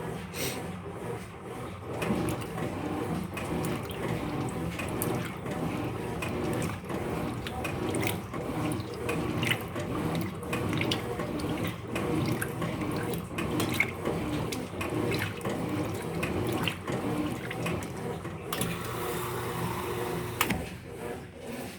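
Electrolux LF75 top-loading washing machine running its cycle, water churning and splashing in the tub in an irregular, continuous wash. Near the end a steadier hiss with a faint hum comes in for about two seconds.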